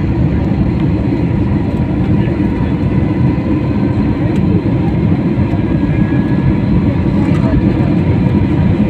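Steady low rumble of a passenger jet heard from inside the cabin as the plane moves on the ground, with a faint steady high whine from the engines.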